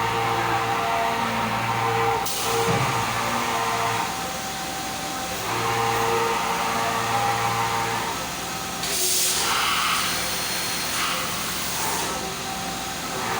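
Five-axis CNC machine running with a steady motor hum. Some of its tones switch on and off every few seconds, and there is a burst of hiss about nine seconds in.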